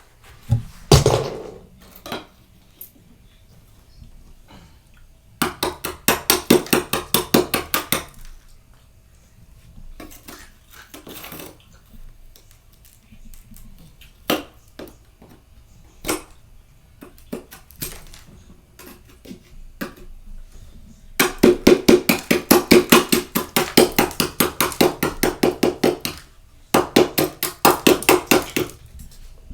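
Freezer frost being scraped off in quick repeated strokes, in three spells, with scattered knocks and clicks in between.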